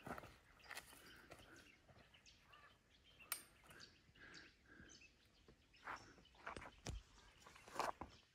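Near-silent bush ambience with a few faint, short bird calls and a handful of soft, scattered knocks.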